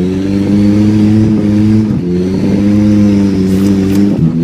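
Car engine revving hard, heard from inside the cabin: its pitch holds high, with short drops in revs about two seconds in and again near the end.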